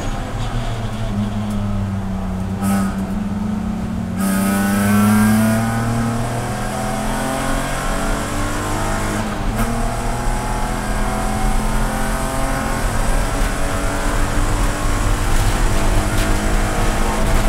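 A BMW E46 Spec race car's straight-six engine heard from the cockpit. It runs low and steady through the corner for the first few seconds, then comes on throttle at about four seconds with the pitch climbing as the car accelerates. After a brief break near ten seconds, an upshift, it climbs again under full throttle.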